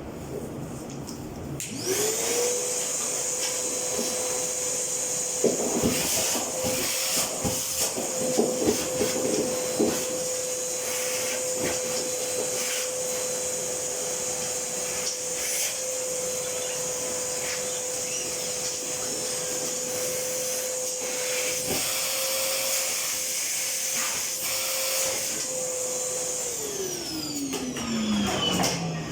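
A high-speed electric motor switched on, running with a steady whine for about 25 seconds, then switched off and winding down in pitch as it coasts to a stop. A few knocks and clatter sound in its first several seconds.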